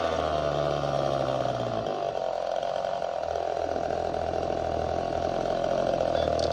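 Two-stroke engine of an old Poulan-built Craftsman chainsaw running steadily, having just come down from a rev at the start.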